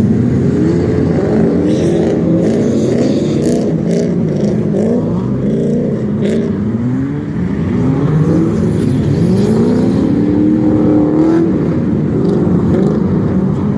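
Drift car engine revving hard, its pitch swinging up and down every second or so as the throttle is worked through the slide, with one longer climb in revs from about eight to eleven seconds in before it drops.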